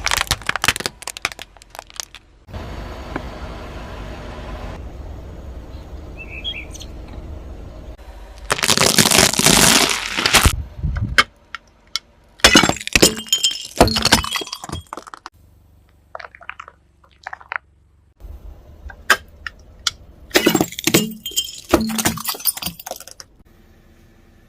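Brittle objects cracking and breaking under a car's tyre, in about five bursts of crunching and snapping, with a steady low rumble between the first and second bursts.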